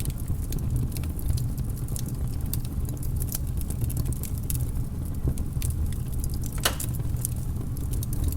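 Wood fire crackling in a fireplace: irregular sharp snaps and pops over a steady low rumble, with one louder crack about two-thirds of the way through.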